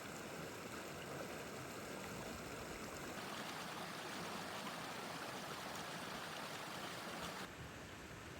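Rushing water of a mountain waterfall, a steady hiss that grows brighter about three seconds in and drops back near the end.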